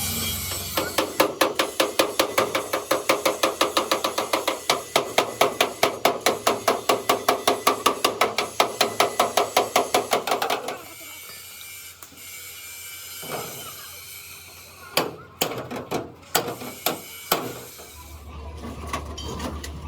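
Hammer beating on metal in quick, even blows, about four a second, for around ten seconds. Then a few separate blows land near the end.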